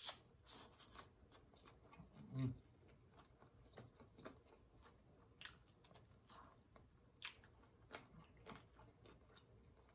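Faint chewing of fried buffalo chicken: soft, scattered mouth clicks and smacks. A brief low hum-like mouth sound comes about two and a half seconds in.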